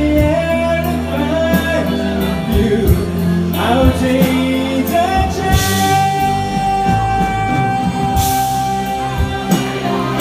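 Live band music with singing: a song played with drums and guitar, with a long held note in the middle and two cymbal crashes.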